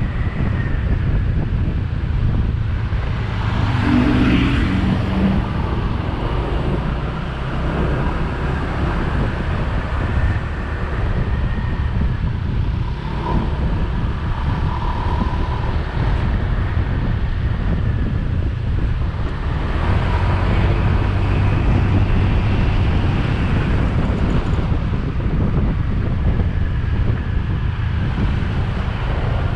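Motorbike engine running under way, mixed with wind rushing over the microphone while riding; the rumble swells a little about twenty seconds in.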